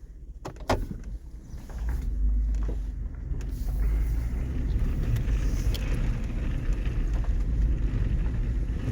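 Pickup truck driving: a steady low engine and road rumble that builds about two seconds in, after two sharp clicks in the first second.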